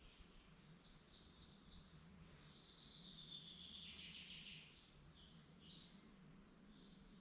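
Faint songbird song: a quick run of about four high notes, then a longer trilling phrase, then a few short chirps, over a faint steady low hum.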